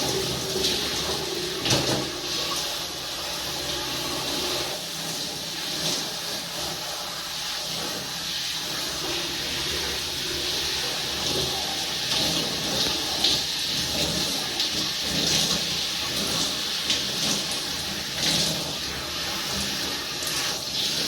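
Water running steadily from a tap or shower and splashing, its sound shifting unevenly, as when hair is rinsed under the stream.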